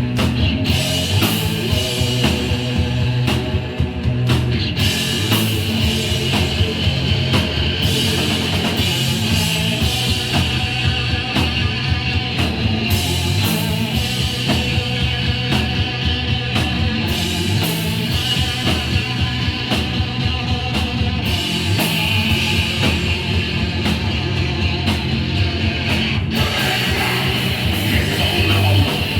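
Hardcore punk band playing live: distorted electric guitar, bass and drums, driving and continuous.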